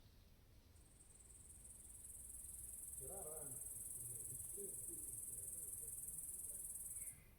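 Insect trilling in one continuous high-pitched buzz that swells over the first couple of seconds, holds steady and cuts off abruptly near the end. A few faint, lower chirps come in partway through.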